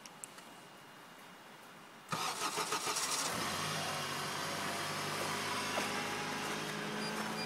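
Honda Accord engine cold-started at about -40°: the starter cranks for about a second from two seconds in, the engine catches and settles into a steady idle. It is a deep-frozen start, the engine cold-soaked to about -32°.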